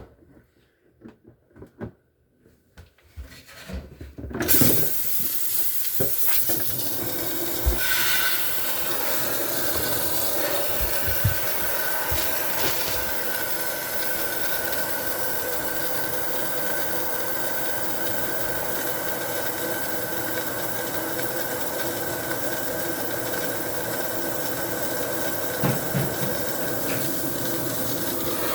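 A few light knocks, then about four seconds in a steady hissing rush starts suddenly, with a faint high whine in it: a tool blowing heat or steam to thaw the frozen-solid ice inside a Samsung refrigerator.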